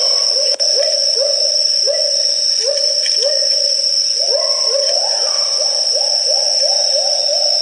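Great argus pheasant calling a series of short rising hoots, about two a second, coming faster toward the end, over a steady high-pitched whine.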